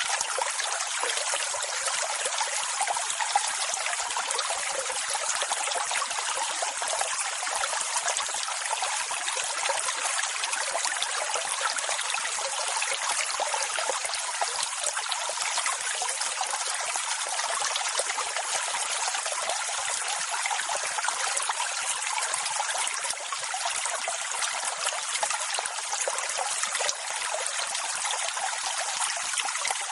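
Steady rushing, hissing water with no deep rumble and no rise and fall of separate waves.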